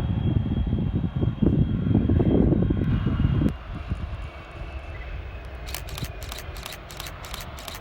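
Jet engines of a Boeing 757-200 freighter on its takeoff run, a loud, rough low rumble with a faint high whine that falls away sharply about halfway through. Near the end comes a quick run of sharp clicks, about four a second.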